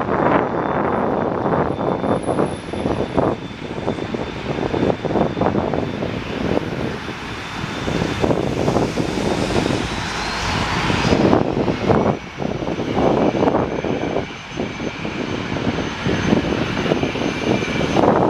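Airliner engines running loud, with a thin high whine that rises in pitch about ten seconds in.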